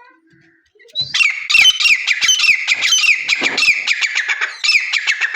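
Grey francolin (desi teetar) calling: a loud, fast run of short downward-slurred notes, about five a second, starting about a second in and running to the end.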